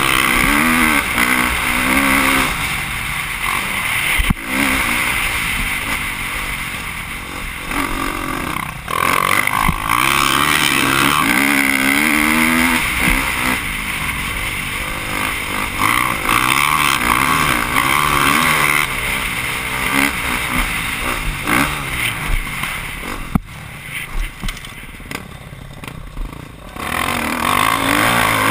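Motocross bike engine heard onboard, revving up and falling back again and again as the rider works the throttle around the track. Wind rushes steadily over the camera microphone, and there are a couple of sharp knocks from the bike, with the engine dropping back for a few seconds near the end.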